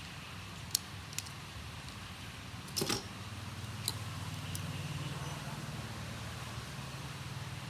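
A few light clicks and one louder knock about three seconds in, from small hard objects being handled, over a low steady hum that strengthens after the knock.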